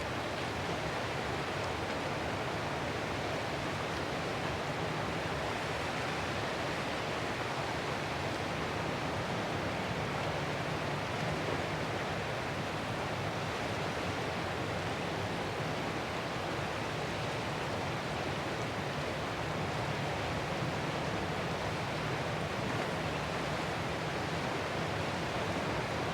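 Ocean surf: a steady, unbroken rush of water noise with no distinct swells or single breaking waves.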